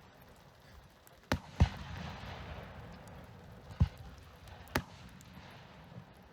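Fireworks display: aerial shells bursting in sharp bangs at uneven intervals, four loud ones and a fainter one near the end. The loudest comes about one and a half seconds in, close after another, and leaves a lingering rumble.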